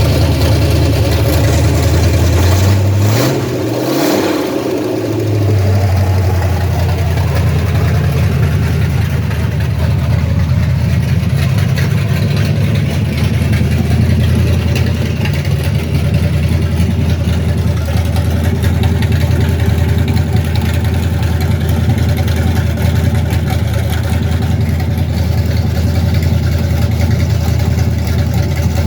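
1969 Ford F100 pickup engine running at a steady idle on its first startup. About three seconds in, the engine speed sags briefly and then recovers.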